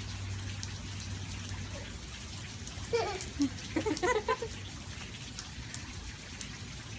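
Steady rain falling, with scattered individual drops ticking sharply on a hard surface. About three seconds in, a brief high-pitched voice sounds for a second or so.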